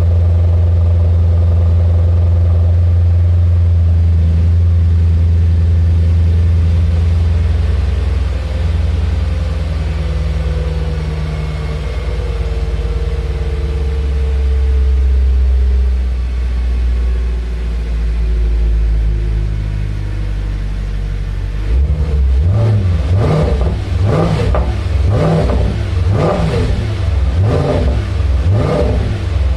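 Audi S5's naturally aspirated 4.2 V8 through a custom X-pipe exhaust, idling steadily after a cold start, the idle dropping a step about seven seconds in. From about three quarters of the way through, the engine is blipped in a series of quick revs, roughly one a second.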